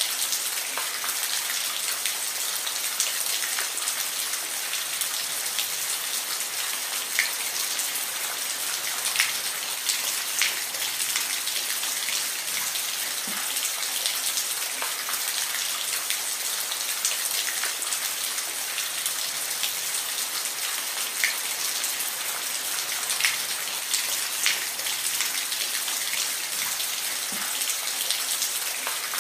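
Steady rain falling, a continuous hiss with frequent sharp individual drops striking a surface.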